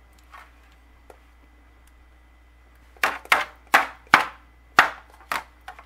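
A quick, uneven run of about seven sharp knocks, starting about three seconds in, after a near-quiet stretch.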